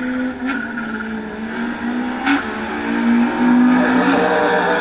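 Drag-racing cars accelerating hard down the strip, their engine note stepping in pitch through the gears, with two sharp cracks about half a second and two seconds in.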